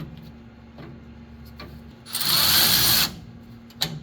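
Handheld power driver run in a single burst of about a second, driving a bolt while a pickup tine is refitted on the baler, followed by a sharp metallic click near the end.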